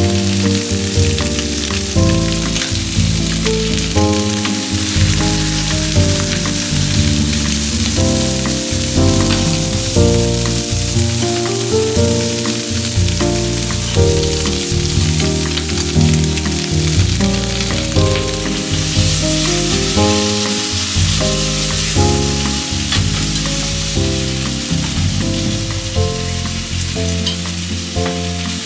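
Food frying in a pan, a steady sizzle, under background acoustic music with a slow melody.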